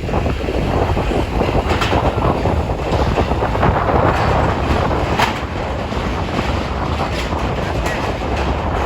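Strong wind buffeting the microphone on the deck of a ferry at sea, over a steady low rumble, with a few sharp clicks.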